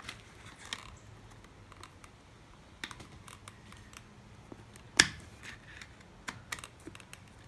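Small clicks and scrapes of a Phillips screwdriver working a screw out of an RC truck's plastic chassis, with one sharper, louder click about five seconds in.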